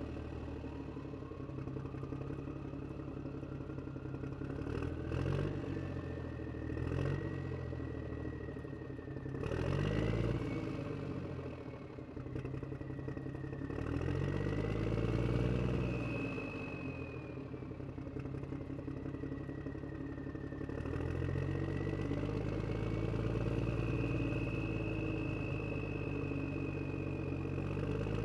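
Miniature toy tractors running with a motor whine that climbs in pitch right at the start, under a low engine-like drone that rises and falls in pitch as the load changes, with some clatter.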